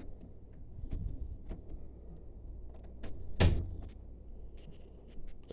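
Scattered light clicks and taps, with one louder knock about three and a half seconds in.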